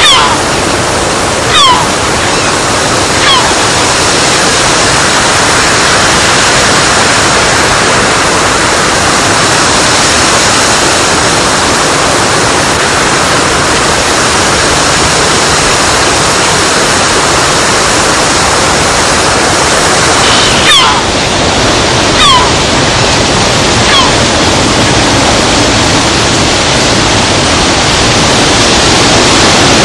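Steady, loud rushing noise with no clear pitch. Twice, three short falling whistles about a second and a half apart cut through it: once right at the start and again about twenty seconds in.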